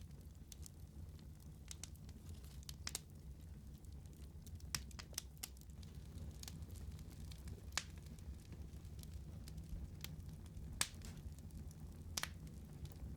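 Wood fire burning, a steady low rumble under scattered sharp pops and crackles, a few of them louder.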